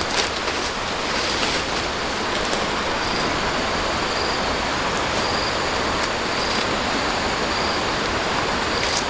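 A steady rushing noise like running water or rain, with short faint high chirps recurring about once a second.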